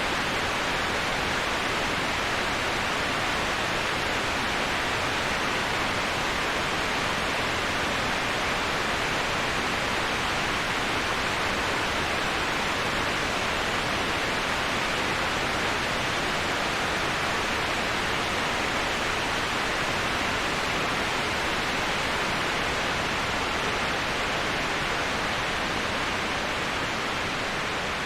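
Waterfall sound used as white noise: a steady, even rush of falling water with no distinct splashes, easing down slightly near the end.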